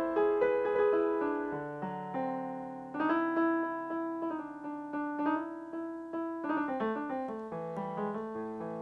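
Solo keyboard with a piano sound, playing slow chords over a held bass. The notes are struck and left to ring and fade.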